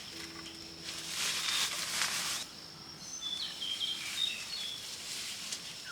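Forest ambience: a steady high insect drone, a loud rustle of movement through vegetation about a second in, then a few short bird chirps.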